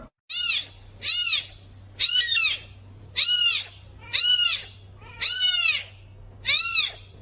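An animal's high-pitched call, repeated about eight times at roughly one a second, each call rising and then falling in pitch, over a faint steady low hum.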